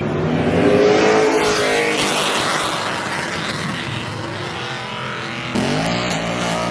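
Car engine revving hard under full acceleration, with a loud rushing noise over it. About five and a half seconds in, a different engine note comes in suddenly.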